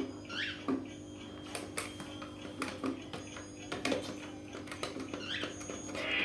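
A cockatiel gives two short chirps, about half a second in and again near the end, among scattered light taps and clicks, over a steady low hum.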